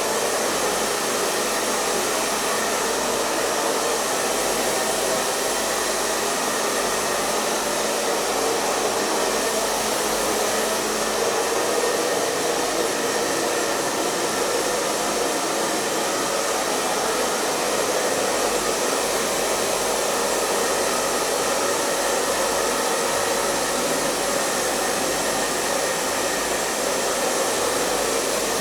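Hair dryer running steadily, a constant rushing blow with a faint hum and no change in speed.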